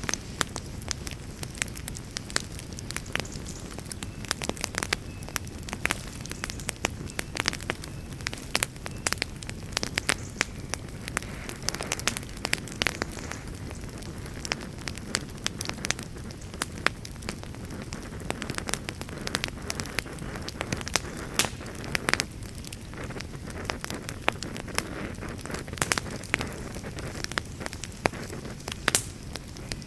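Wood campfire crackling, with frequent irregular sharp pops and snaps over a steady low rushing.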